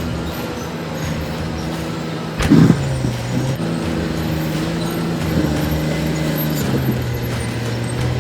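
Cat D7 bulldozer's diesel engine running under load, its pitch dropping and picking back up a couple of times as it works. One loud bang about two and a half seconds in.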